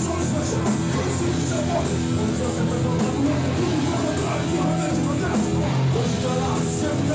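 Hardcore band playing live: distorted electric guitars, bass and drums at full volume, with cymbal strokes repeating at an even pace.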